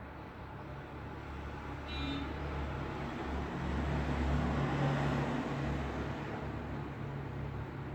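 Road traffic noise: a steady rumble of passing vehicles, swelling as one passes close about halfway through. A brief high tone sounds about two seconds in.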